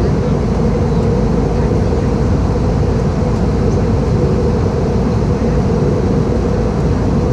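Steady cabin noise of an Airbus A318-111 in flight: the drone of its CFM56 engines and the airflow over the fuselage, with a constant hum running through it.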